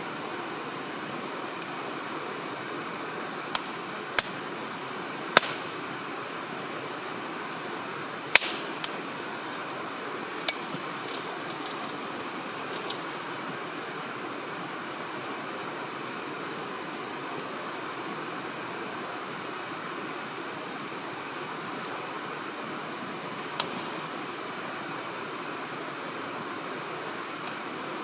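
Firewood burning in a campfire: sharp crackles and pops, several in the first half and one more near the end, over a steady rushing hiss.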